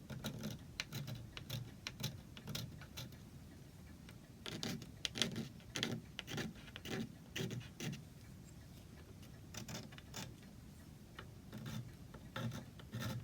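Hand scraper scraping old glue and filler off a rosewood chair joint, in short repeated strokes that come in runs with brief pauses between.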